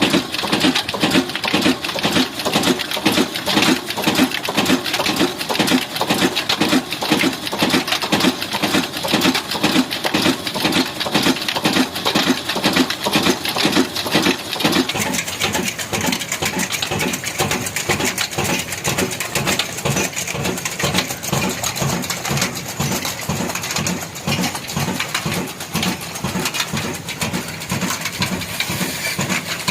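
Old single-cylinder black diesel engine running steadily, a slow even chugging of about three beats a second with mechanical clatter over it.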